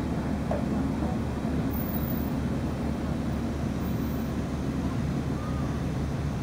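A motor vehicle's engine running steadily, a constant low rumble.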